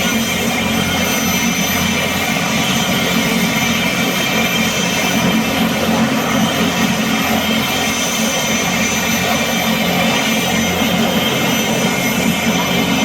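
Turbine helicopter running steadily, a loud even rush of engine and rotor noise with a steady high whine over it.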